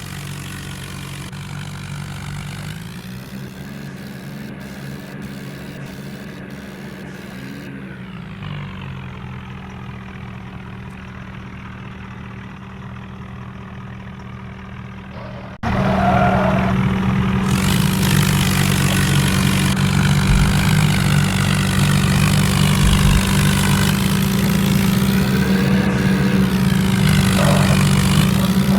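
Tractor engine running steadily at a constant speed, jumping abruptly louder about halfway through.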